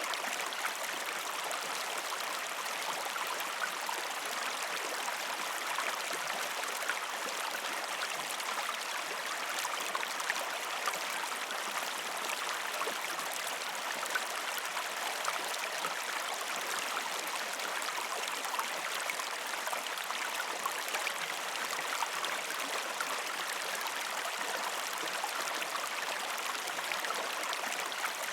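A shallow river stream flowing steadily over rocks, a constant even rush of water with small splashes and trickles scattered through it.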